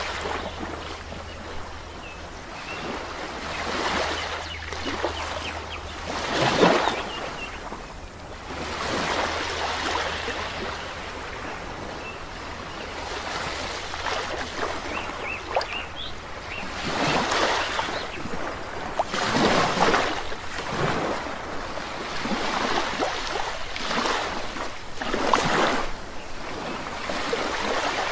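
Sea waves washing onto the shore, surging and falling back every few seconds, with a few faint bird chirps.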